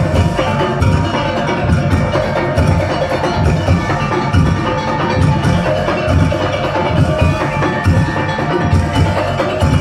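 Madurese daul (tong-tong) percussion ensemble playing: a heavy drum beat about twice a second under clattering wooden percussion and ringing tuned metal percussion.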